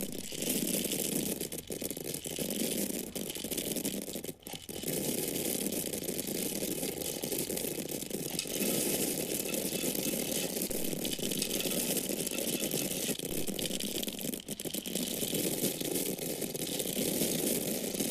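Dry corn kernels falling in a continuous stream, a dense patter of many tiny impacts, with brief lulls about four and fourteen seconds in.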